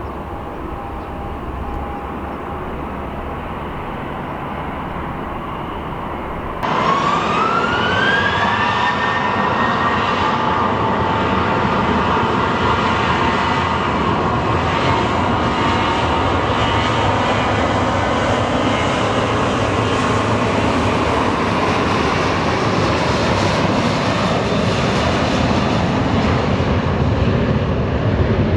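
A quieter steady engine sound, then after a sudden cut about a third of the way in, a jet airliner's engines spooling up with a rising whine that settles into a steady whine over a loud roar, as at takeoff thrust.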